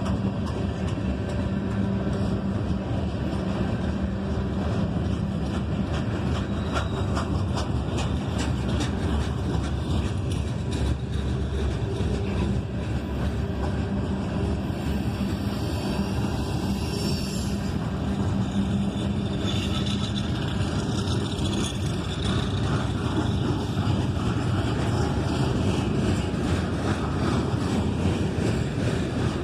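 Freight train of loaded rock cars rolling past: a steady rumble of steel wheels on rail with a low hum beneath it. Sharp clicks come a few seconds in, and a high wheel squeal rises about halfway through.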